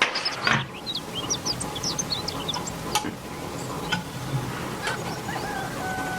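Small birds chirping over and over, with a few sharp clicks and knocks in between and a short held tone near the end.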